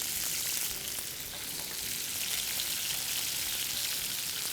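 Chicken breast pieces sizzling steadily in hot oil in a pan with crushed green cardamom, a continuous crackling hiss as the chicken sears.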